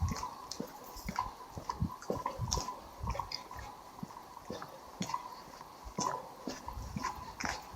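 Footsteps of a person walking at a steady pace, about two steps a second, with a faint steady tone underneath.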